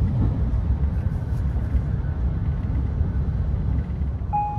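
Cabin running noise of a VR Pendolino Sm3 train at speed: a steady low rumble of the wheels on the track. A brief electronic beep sounds near the end.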